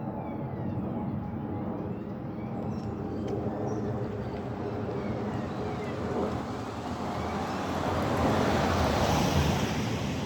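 Jet airliner passing overhead: a steady rumbling roar that swells towards its loudest near the end.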